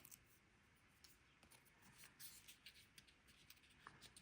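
Near silence with faint, scattered light ticks and rustles of paper cardstock being handled and pressed into place.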